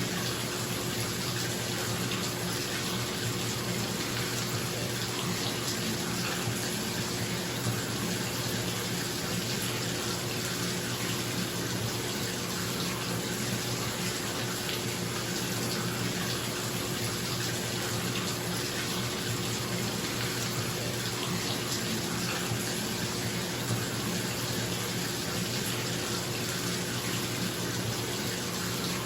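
Bathtub tap running steadily into a filling tub, an even rush of water, over the steady hum of a bathroom exhaust fan.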